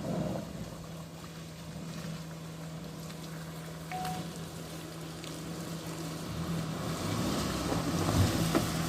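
Steady low engine hum, with a vehicle approaching and growing louder from about six seconds in.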